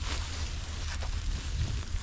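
Wind buffeting the microphone: a steady low rumble with a hiss above it, and a faint click about halfway through.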